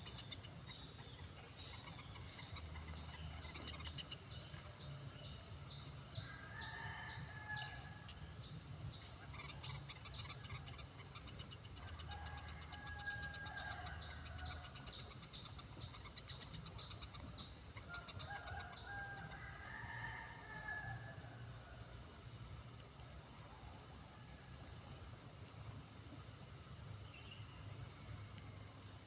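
Steady high insect drone, with a bird calling three times over it in long, drawn-out calls.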